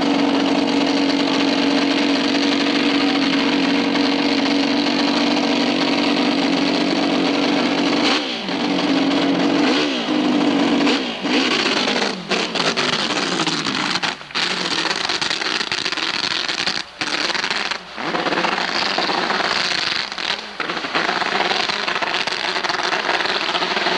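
Hillclimb racing motorcycle engine running hard at a steady high pitch, then swinging up and down in pitch. In the second half the sound roughens and drops out briefly several times, as if the throttle is chopped.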